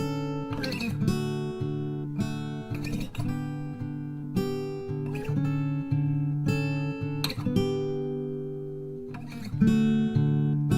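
Background music: acoustic guitar strumming chords at a relaxed pace.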